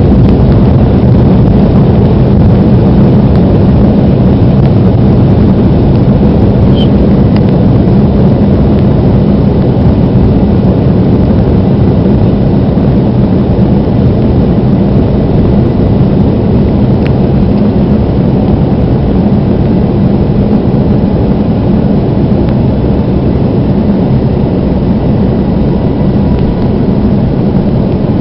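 Aircraft engines at takeoff power heard from inside the passenger cabin: a loud, steady low roar and rumble, easing slightly toward the end.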